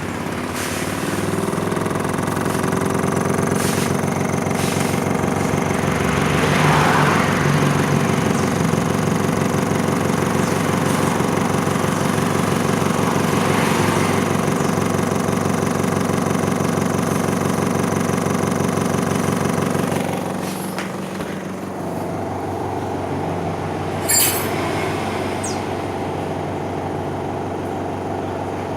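Sanken washing machine's electric motor, on newly fitted rubber mounts, speeding up and then running with a steady hum. About twenty seconds in the hum drops and changes, and there is a sharp click a few seconds later.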